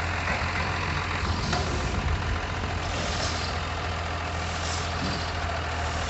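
Heavy truck's diesel engine running steadily at low revs, with a hiss that cuts off about a second in.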